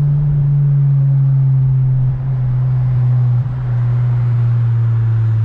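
Engine of an 8th-generation Honda Civic Si heard from inside the car, a steady drone whose pitch slowly falls, with two brief dips in level about two and three and a half seconds in.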